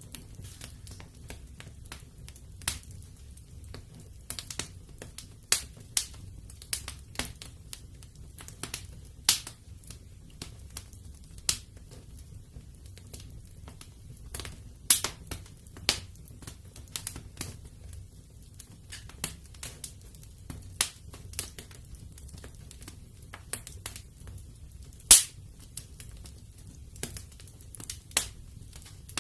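Fireplace fire crackling, with irregular sharp pops and snaps over a low steady rumble; the loudest pops come about 15 and 25 seconds in.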